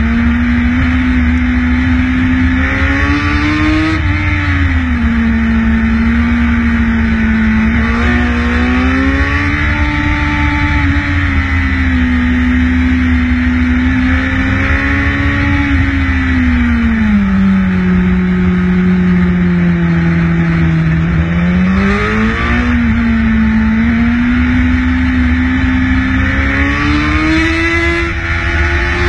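Motorcycle engine running under way, its pitch rising and falling slowly as the throttle is opened and eased through a series of curves, over a steady low rumble.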